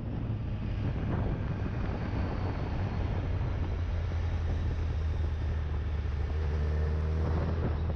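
Kawasaki ZX-10R sport bike's inline-four engine running at a steady low note, picking up slightly near the end.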